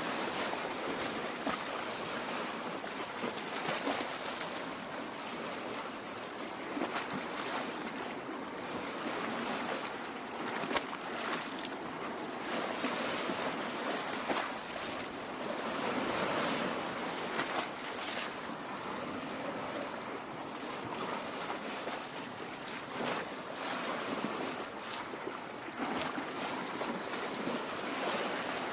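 Small waves lapping at a lake shore: a steady watery wash with frequent small splashes against the shore's rocks.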